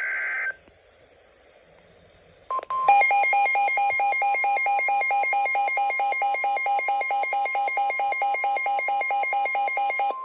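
The last burst of a SAME digital alert header, a brief buzzy data squawk, then after a short pause the NOAA Weather Radio 1050 Hz warning alarm tone comes on, signalling a warning. A rapid pulsing alert beep, rich in overtones, sounds over the steady tone for about seven seconds and stops shortly before the end, leaving the tone alone.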